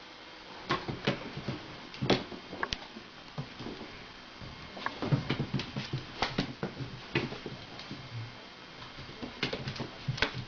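A kitten scampering and pouncing, its paws and claws tapping and scrabbling on the floor in irregular clusters of sharp taps and thumps.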